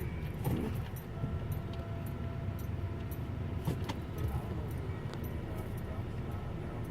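Low steady rumble of a car and automatic car-wash machinery heard from inside the car's cabin, with scattered light clicks and rattles and a faint steady hum.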